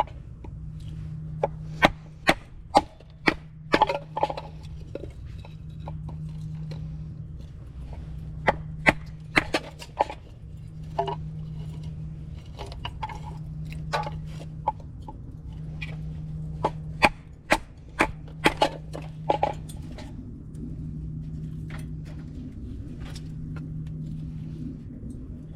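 Firewood crackling in a fire pit: sharp, irregular pops and snaps, some in quick clusters. Under them a steady low hum swells and cuts out about every two seconds.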